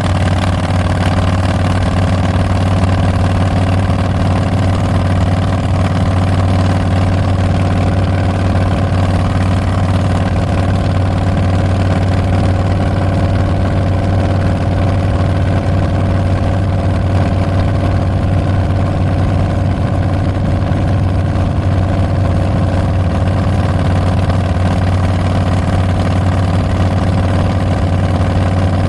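2022 Harley-Davidson Street Bob's 114 cubic-inch V-twin running through Tabs Performance slip-on mufflers with Zombie baffles, holding one steady, low engine note with no revving.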